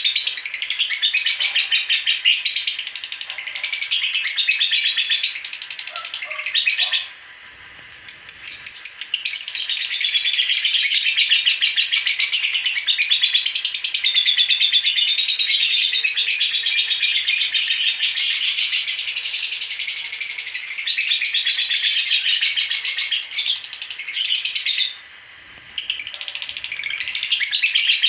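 Female lovebird singing its long, rapid chattering trill ('ngekek'), high-pitched and nearly unbroken, pausing briefly twice: about seven seconds in and again near twenty-five seconds.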